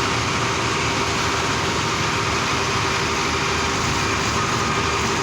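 Heavy machine's engine running steadily under work, a continuous low chugging with no change in level.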